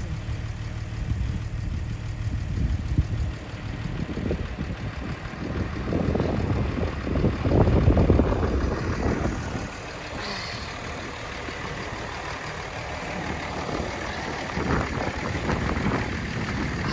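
An engine running steadily, louder for a couple of seconds around the middle.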